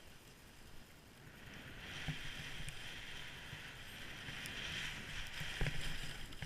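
Skis hissing over snow as the skier starts down the run, building about a second and a half in and then holding steady, with low wind thumps on the microphone and a couple of knocks.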